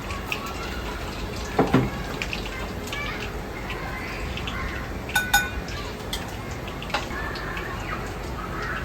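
Restaurant kitchen at work: a steady background rush with scattered clicks and clatter of dishes and metal utensils, and one ringing metallic clink about five seconds in.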